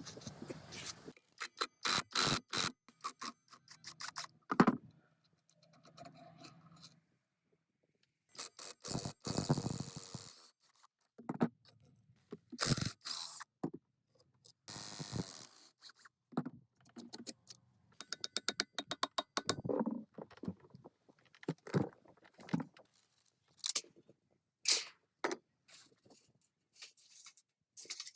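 Hand work on rusted metal generator parts: short bursts of scraping and runs of rapid clicking, broken by brief silences.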